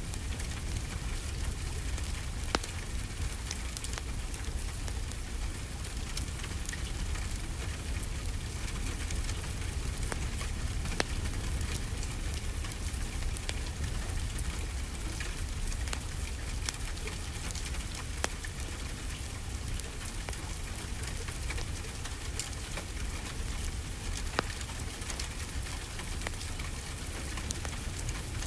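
Steady rainfall mixed with a crackling wood fire: a constant hiss of rain with a low rumble beneath, and scattered sharp pops from the fire, a few of them louder than the rest.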